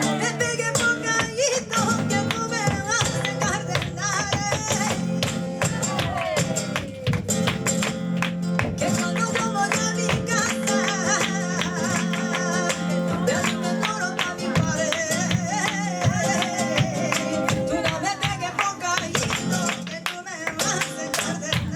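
Live flamenco tangos: a plucked flamenco guitar and a female cante singer, the singing in two long phrases with a gap in the middle, over many sharp percussive strikes throughout.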